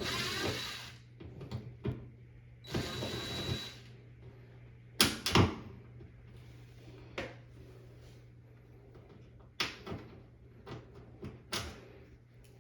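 Scattered clicks and knocks with two short hissing rustles, from hands and tools working on the rubber door seal of a front-loading washing machine.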